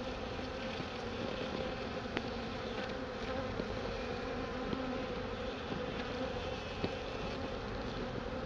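A swarm of honey bees buzzing steadily, a dense, even hum of many wings.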